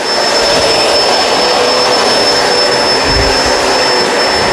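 Kenmore Crossover Ultra upright vacuum running on a thick-pile rug: a steady rush of motor and suction with a constant high-pitched whine.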